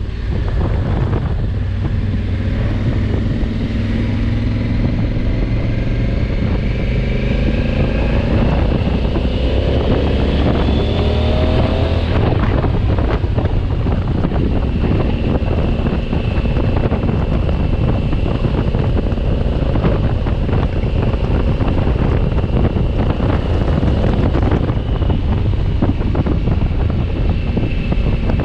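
2020 Honda Africa Twin's parallel-twin engine under way, its note rising steadily for about twelve seconds as it accelerates, then holding at a steady cruise, with wind rushing over the microphone.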